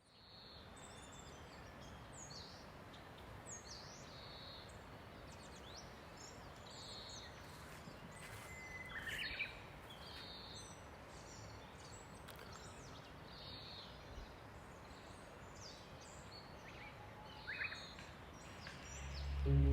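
Wild birds chirping and calling over a faint, steady outdoor background, with many short high chirps and a couple of louder calls.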